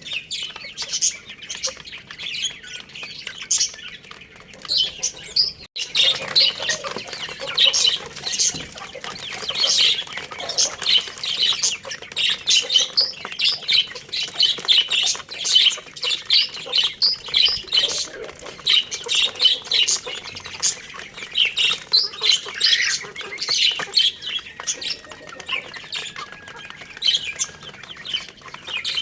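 Chicks chirping: many short, high peeps overlapping in a steady chatter, with a brief break about six seconds in.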